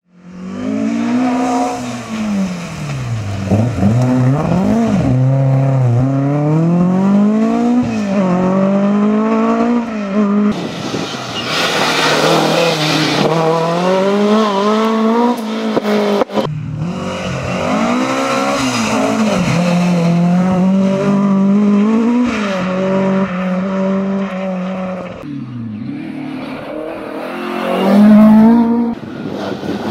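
Ford Escort Mk2 rally car's engine revving hard at speed, pitch climbing and dropping repeatedly as it works through the gears, in several separate passes. It is loudest near the end as the car goes past close by.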